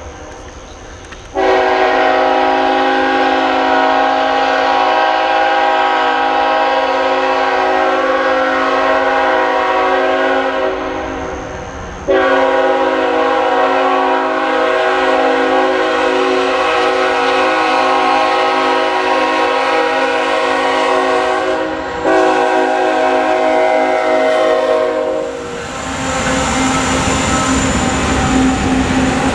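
Locomotive multi-chime air horn sounding three blasts: two long ones of about ten seconds each, then a shorter one of a few seconds, over the running noise of a passing train.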